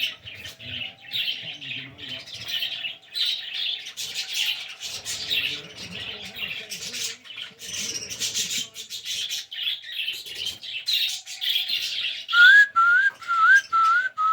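A flock of pet birds chirping and twittering busily, with no let-up. Near the end a run of short rising whistles, about two a second, comes in louder over the chirping.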